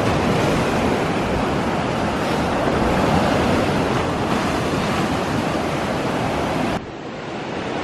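Ocean surf washing onto the beach, with wind buffeting the microphone: a steady rushing noise that drops off abruptly near the end and then builds back.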